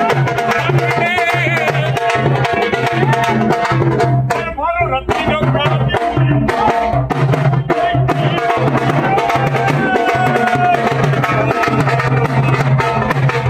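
Live Indian folk music: a hand drum beating a steady rhythm with a wavering melody over it.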